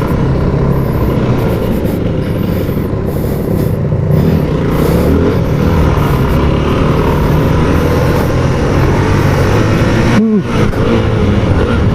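2013 Yamaha WR250F's single-cylinder four-stroke engine running under throttle while being ridden off-road. About ten seconds in, the engine note drops briefly, then climbs again.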